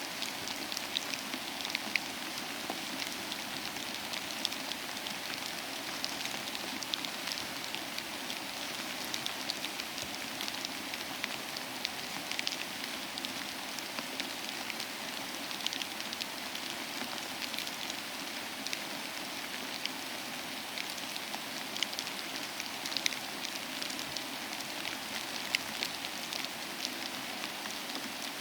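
Steady rain falling on a hard surface, an even hiss dotted with many sharp individual drop splashes.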